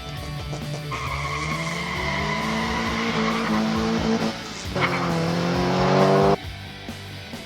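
Dubbed race-car engine sound effect revving up through the gears: it rises from about a second in, drops and climbs again at a gear change near the middle, and cuts off suddenly near the end. Guitar rock music plays underneath.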